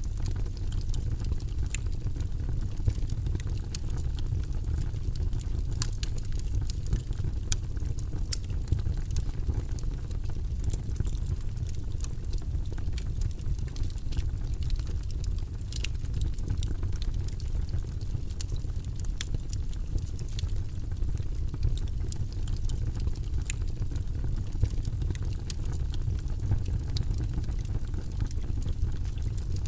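Wood fire burning in a fireplace, with a steady low rumble and frequent small sharp crackles and pops.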